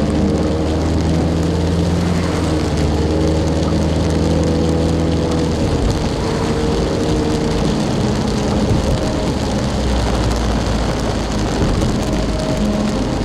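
Car moving through heavy rain: a steady hiss of rain and wet road noise over a low engine hum that changes pitch about six seconds in and again near ten seconds.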